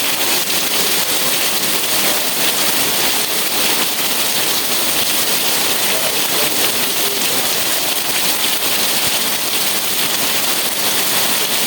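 Steady rain falling on a surface, an even hiss with fine crackle of drops.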